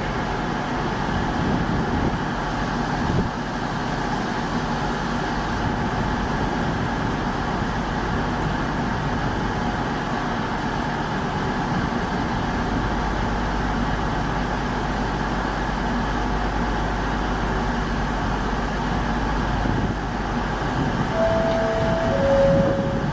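A vehicle's engine running steadily with a deep hum. Near the end come two short steady tones, the second lower than the first.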